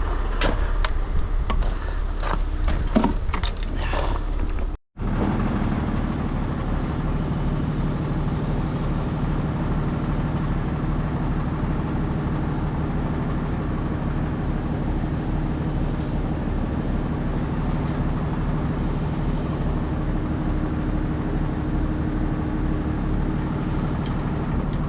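Truck engine running steadily. In the first few seconds there are several sharp clicks and knocks, and a brief dropout about five seconds in.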